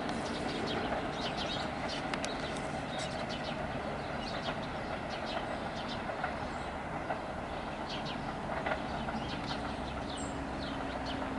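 Staten Island Railway electric train running away along the track: a steady rumble of wheels on rail with scattered clicks.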